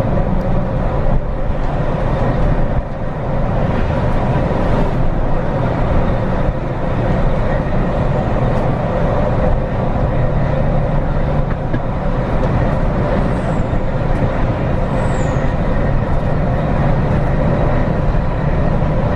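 Scania bus heard from inside the cabin while driving: steady engine hum and road noise.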